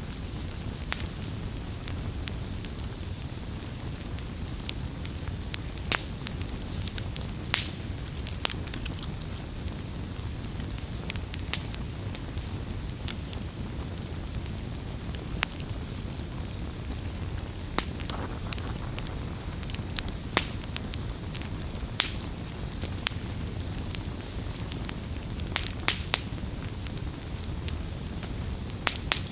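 Campfire of burning wood crackling, with irregular sharp pops and snaps over a steady low rumble of the flames.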